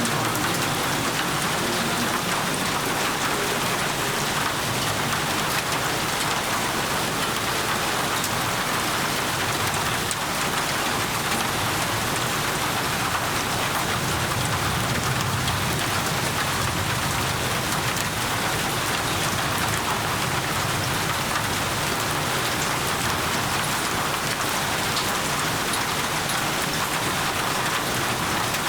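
Steady heavy rain falling on surfaces, a dense, even patter of drops without let-up.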